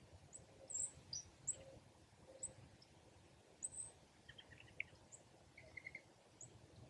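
Faint outdoor quiet with scattered short, high bird chirps, about a dozen of them, and a few lower, softer notes past the middle, over a low steady rumble.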